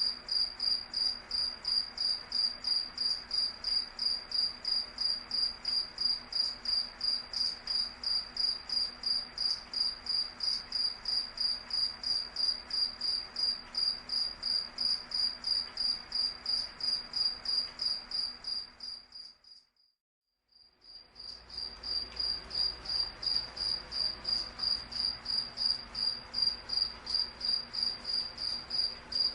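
A cricket chirping in a steady, rapid pulsed rhythm on one high pitch. About twenty seconds in it fades out to silence for a moment and then fades back in.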